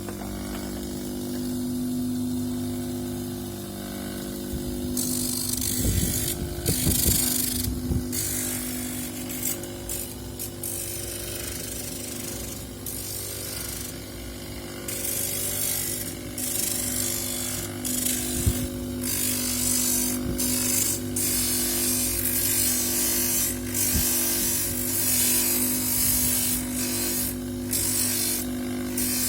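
Electric polishing or grinding motor running with a steady hum, and from about five seconds in, intermittent harsh scratching as a seashell is pressed against the spinning wheel and lifted off again.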